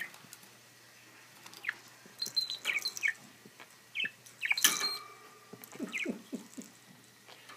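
Budgie giving short, scattered chirps, with small clicks between them and one louder, noisier burst a little past halfway.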